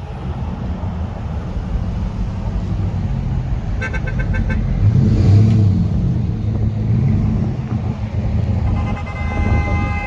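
Vehicle engines rumbling with a deep, steady low drone that swells briefly in the middle. About four seconds in comes a quick run of short horn toots, and near the end a longer horn blast.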